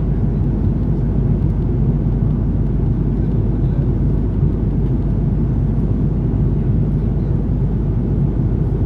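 Steady low cabin roar inside an Airbus A330-300 airliner, the engine and airflow noise heard from an economy seat, with no change in level.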